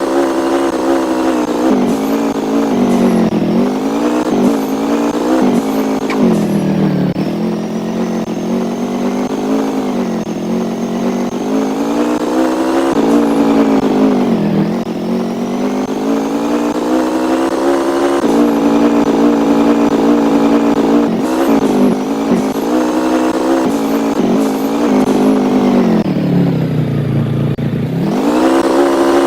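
A vehicle engine running while under way, its pitch repeatedly falling and climbing again as the speed changes, with its deepest drop shortly before the end and a quick climb back up.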